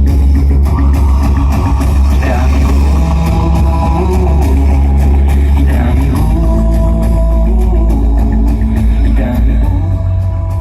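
Rock song with singing and guitar played loud through a PA sound system with 21-inch subwoofers, with strong deep bass.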